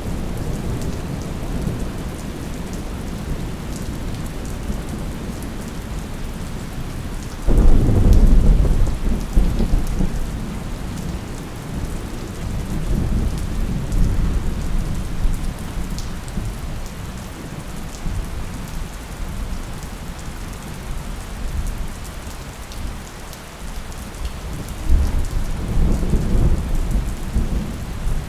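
Thunderstorm: steady rain with a sudden loud crack and rumble of thunder about a quarter of the way in, fading over several seconds, and a second, weaker rumble of thunder near the end.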